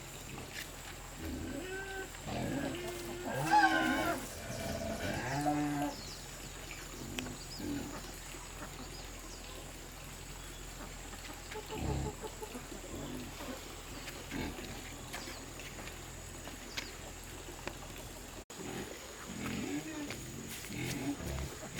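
A farm animal calling: several drawn-out calls in the first few seconds, the loudest about four seconds in, then fainter calls later.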